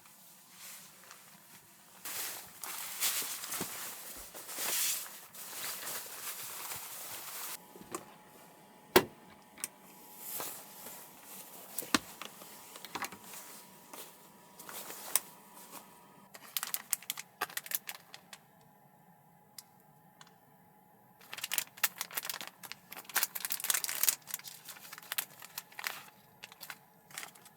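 Close-up handling noises: irregular clicks, light knocks and crinkling rustles of objects being moved about, with a sharp knock about nine seconds in and a busier spell of clicking near the end.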